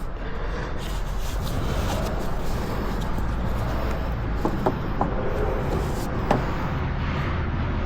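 Steady low hum with a few light clicks and knocks from parts being handled during work on an ATV's rear axle, the clicks coming about halfway through.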